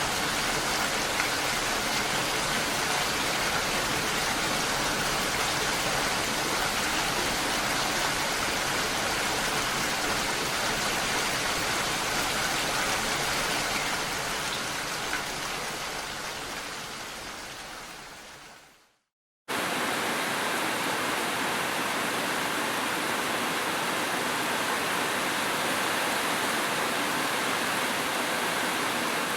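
Steady rain fades out over several seconds. After a brief silence, the steady rush of a waterfall starts abruptly.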